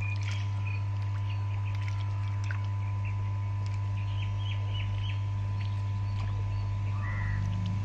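Birds chirping, short scattered calls with one longer call near the end, over a steady low hum.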